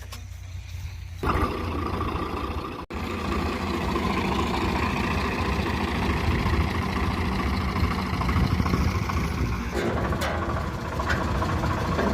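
Swaraj 735 tractor's diesel engine running steadily, getting suddenly louder about a second in, with a momentary dropout shortly after.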